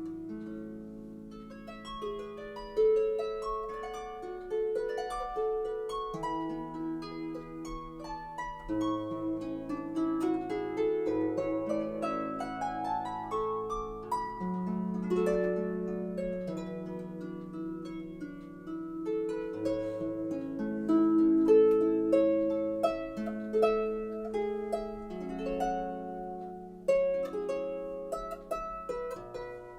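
Harp music: plucked notes over sustained low notes, with a rising run of notes about halfway through.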